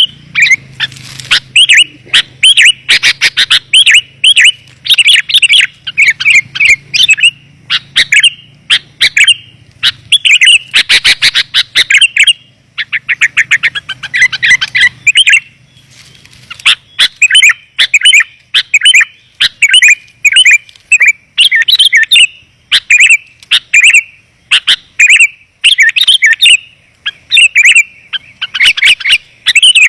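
Sooty-headed bulbul calls played as a bird lure: dense, clear chirping phrases repeated with hardly a break, meant to draw wild bulbuls in.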